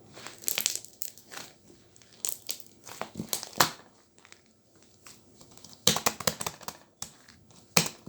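Slime being squeezed and pressed by hand, giving irregular crackling pops and clicks in clusters, with a quieter pause in the middle.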